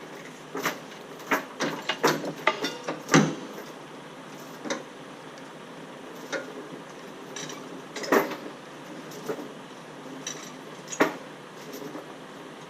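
Irregular sharp metallic clanks and rattles over steady background noise. They come thick and fast in the first three seconds or so, the loudest just after three seconds in, then scattered single knocks.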